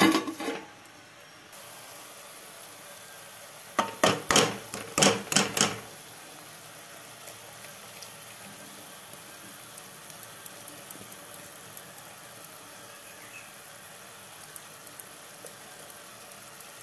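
Onion and green chilli mixture frying in a steel kadai with a steady quiet sizzle. A quick cluster of sharp metal knocks comes about four to six seconds in, and light clinks follow later on.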